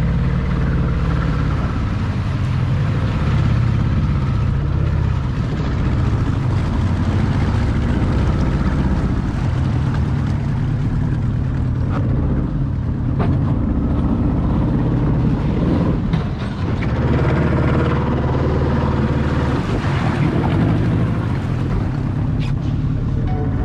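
Boat engine running steadily with a low, even hum, its note shifting a few times as the throttle changes.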